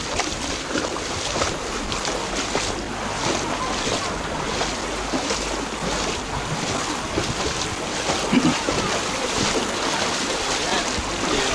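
Wind buffeting the microphone over the wash of water in a flooded street, with short splashy noises coming again and again and faint voices behind.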